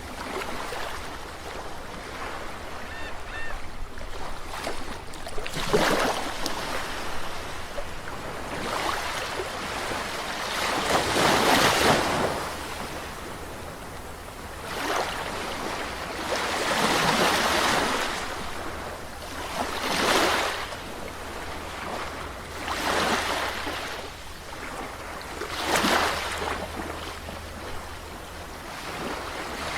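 Calm sea waves breaking and washing in on the shore. Each surge swells and fades, and a new one comes every three to six seconds.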